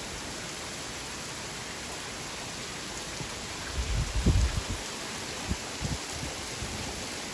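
Steady hiss of heavy rain falling as a summer rainstorm picks up. About four seconds in, and more weakly a couple of times after, short low rumbles come through under the rain.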